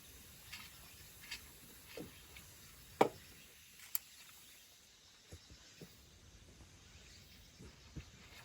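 Faint, scattered knocks and clicks, the loudest a knock about three seconds in, followed by a sharp click about a second later.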